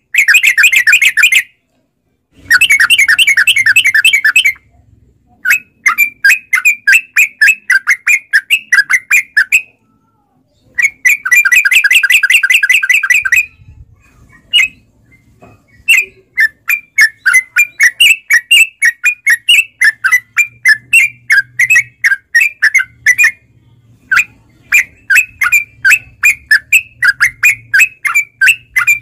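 Yellow-vented bulbul calling in long strings of rapid chattering notes. It gives several dense bursts of two to three seconds with short pauses between them. From about halfway on, the calls become a steady run of separate notes, about three to four a second.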